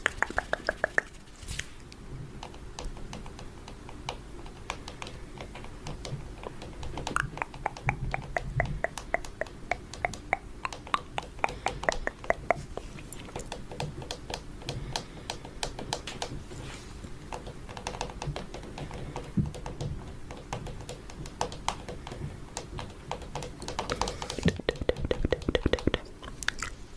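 Fingernails tapping on a camera: quick runs of sharp clicks with sparser taps between.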